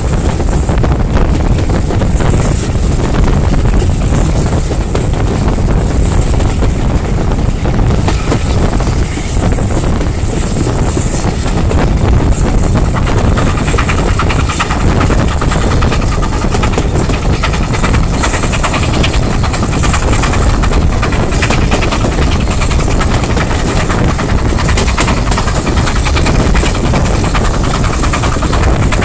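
Steam-hauled passenger train running along the line, heard from an open carriage window: a steady, loud rumble of wheels on rails with wind rushing past the microphone.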